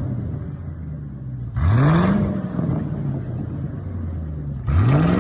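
1996 Lincoln Town Car's 4.6-litre V8 running with no exhaust fitted, idling and blipped twice: about one and a half seconds in and again near the end, each rev rising sharply and dropping back to idle.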